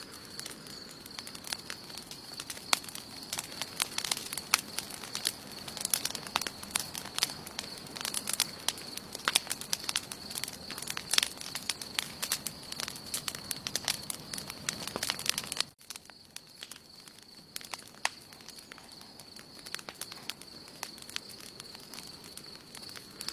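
Wood campfire burning, crackling and popping with frequent sharp snaps. About two-thirds of the way in, the sound drops out for an instant, and the crackling then goes on sparser and quieter. A steady high-pitched tone sits underneath.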